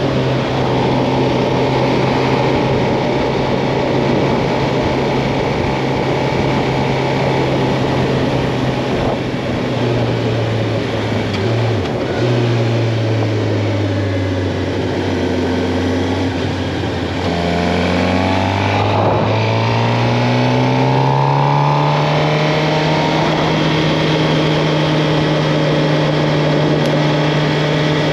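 Suzuki GSX-R 750's inline-four engine running at a steady road speed over a haze of wind noise. About ten seconds in the engine note falls as the bike slows, then it climbs again from about seventeen seconds as the bike accelerates, and settles back to a steady pitch.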